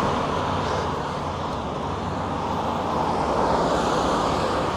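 Steady rush of wind and road traffic noise heard while riding a bicycle along a city street, swelling slightly about three seconds in.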